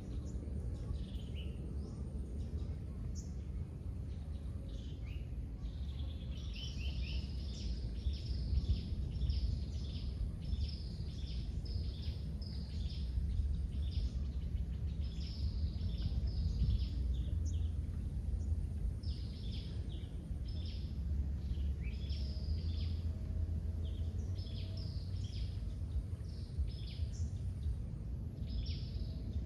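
Birds chirping in quick runs of short, high, repeated notes over a steady low rumble.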